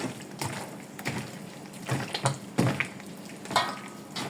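Soft soursop fruit being smashed and mashed by hand, giving irregular wet squishes and thumps about once or twice a second.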